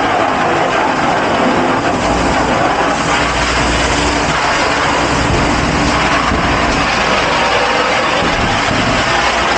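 Steady, loud mechanical roar of restaurant dishpit machinery running, with a low hum that comes in about two seconds in.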